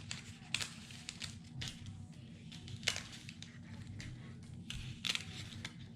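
Faint rustling and light clicks of paper and cardstock die-cut pieces being handled and sorted, a few scattered taps over a low steady hum.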